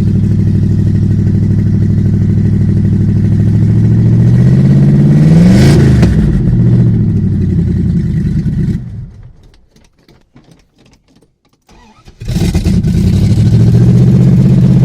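1974 Plymouth Cuda's cammed 360 V8 running rough on a cold start, a little out of time. It revs up and back down about five seconds in, dies about nine seconds in, and fires back up and runs again about three seconds later.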